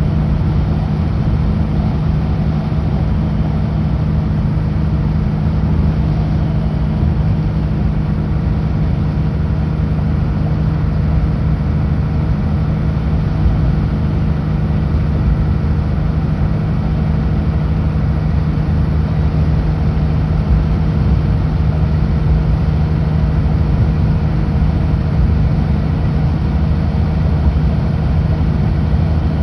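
Kenworth W900L semi truck's diesel engine droning steadily at highway cruise, with continuous road and wind noise. Engine speed holds even throughout, with no shifts or braking.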